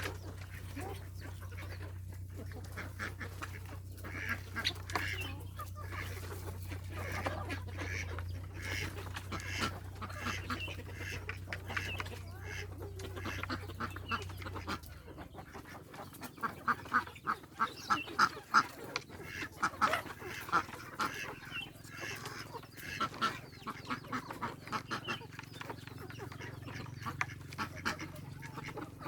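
Farm poultry calling: ducks and geese give many short, repeated calls, with a loud run of rapid calls a little past the middle. A low steady hum runs underneath and shifts up in pitch about halfway through.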